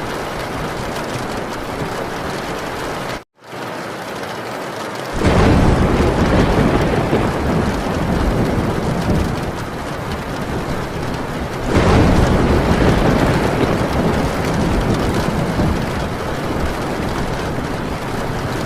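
Heavy rain drumming on a tin roof, with two long rolls of thunder that each break in suddenly and fade over several seconds, the first about five seconds in and the second about twelve seconds in. A split-second dropout to silence comes shortly before the first roll.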